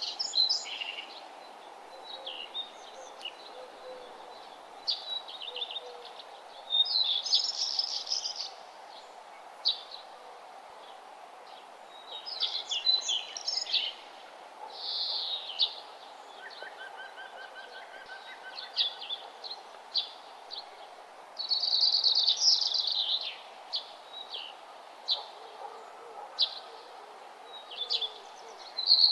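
Songbirds singing outdoors: short high phrases, some of them rapid trills, come every few seconds over a steady low hiss of background noise.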